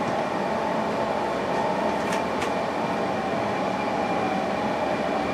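Passenger train running, a steady rumble and hum heard from inside the carriage, with two faint clicks about two seconds in.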